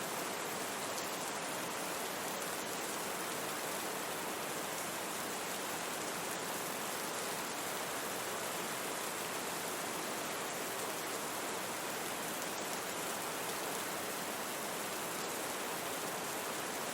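Steady rain mixed with a constant brown-noise hiss, unchanging throughout.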